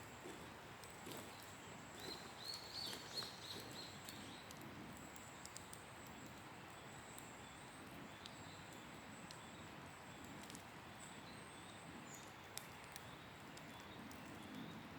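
Campfire crackling faintly, with sparse sharp pops over a steady hiss. A bird chirps several times about two to three seconds in.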